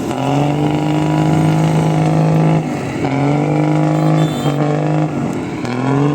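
M35A2 6x6 truck's engine running just after a push start, revved up several times. Each time the pitch climbs, holds steady for a second or two, then drops.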